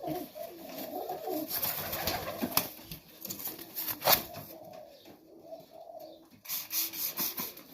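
Domestic pigeons cooing in a loft, with repeated low rolling coos, and two sharp clicks about two and a half and four seconds in.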